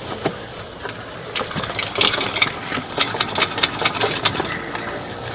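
A motor running steadily, with irregular clicks and rattles over it.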